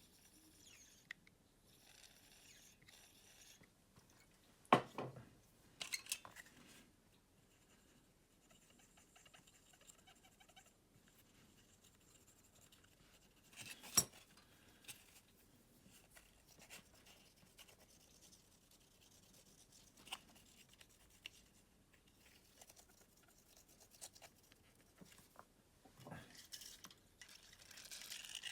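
Small handling sounds of a remote control being worked on by hand: scattered clicks and knocks of its plastic parts, with short stretches of scratching or brushing.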